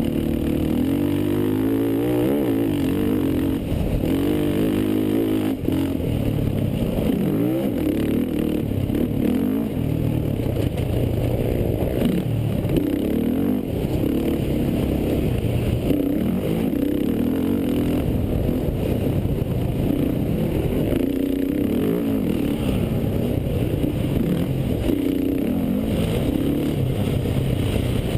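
Racing quad (ATV) engines running hard, their pitch rising and falling again and again as they rev up and back off.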